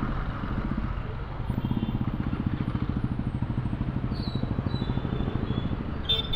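Motorcycle engine running steadily under way, a low, even, fast-pulsing note over road and wind noise. There is a short high-pitched sound about six seconds in.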